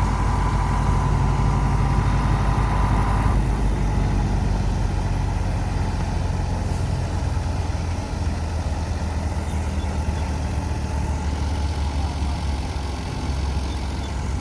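Diesel tractor engine running steadily at a low, even rumble. A thin steady whine on top of it cuts out about three seconds in.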